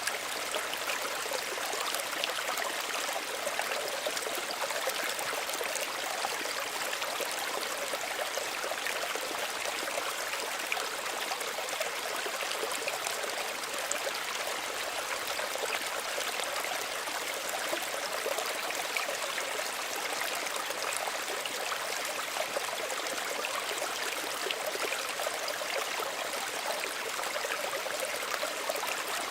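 Small stream running steadily, its water trickling and splashing over stones.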